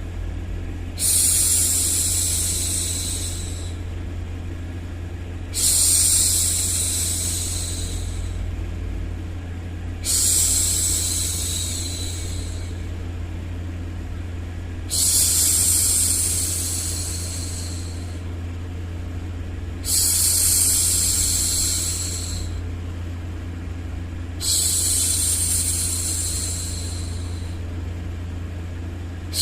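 A woman's voice shushing for a baby: six long 'shhh' sounds, one about every four to five seconds, each starting sharply and fading away over about three seconds. A steady low white-noise rumble runs underneath.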